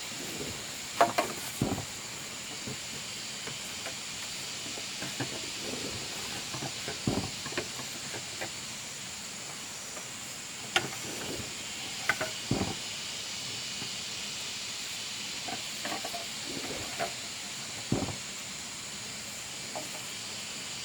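A steady high hiss with scattered, irregular knocks and clatters.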